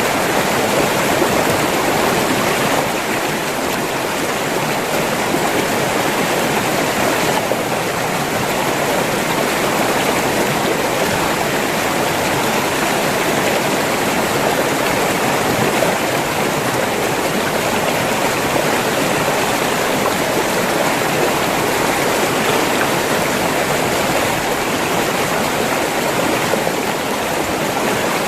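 River water flowing and splashing over rocks in a steady, continuous rush.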